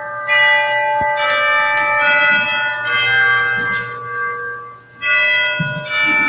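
Church bells ringing, a new stroke about every second, each note ringing on over the ones before, with a short lull about four seconds in before the strokes resume.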